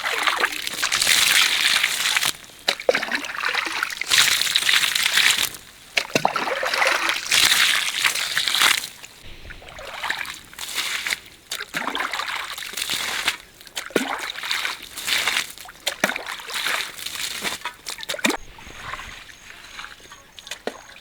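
Water sloshing and splashing in irregular bursts of a second or two each, louder in the first half.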